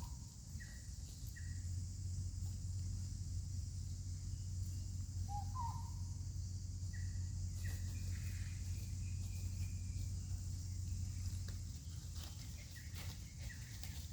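Outdoor ambience: a steady high insect buzz over a low hum, with a handful of short chirping calls scattered through, and a few clicks near the end.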